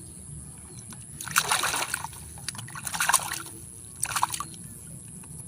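Water splashing as mud is rinsed off a plastic toy, in three short bursts: about a second in, three seconds in and four seconds in.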